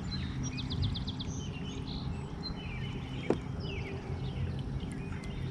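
Several birds chirping and calling, including a quick series of about six rapid notes near the start, over a steady low rumble. A single sharp click comes about three seconds in.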